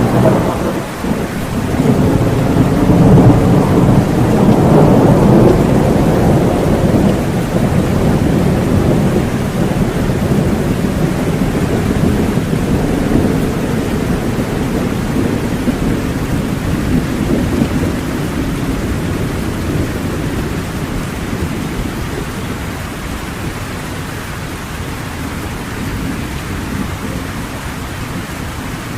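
Thunderstorm: a long rolling peal of thunder that swells about two seconds in and slowly dies away, over steady heavy rain.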